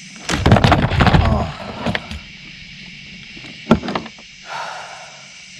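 Large blue catfish thrashing on a plastic fishing kayak: a loud burst of flopping and clattering in the first second and a half, then a couple of sharp single knocks against the hull.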